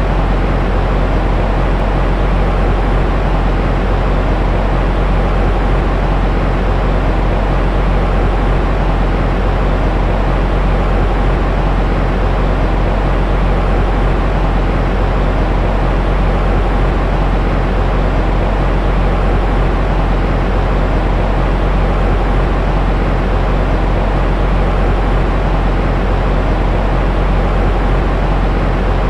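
Steady, unbroken white noise for soothing an infant to sleep, weighted toward a deep rumble in the bass and fading out in the treble.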